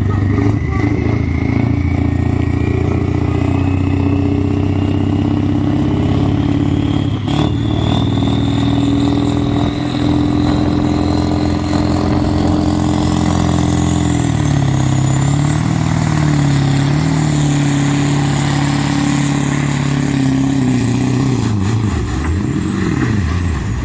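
Pulling tractor's engine running loud and steady under power, with a thin whine climbing in pitch over many seconds. The engine note wavers and shifts after about 14 s and drops away near the end.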